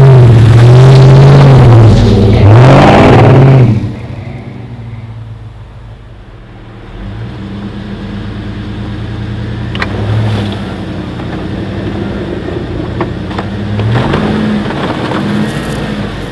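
Car engine under way, running loud with the revs rising and falling for the first few seconds, then dropping to a quieter, steadier running with a few smaller rises in revs later on.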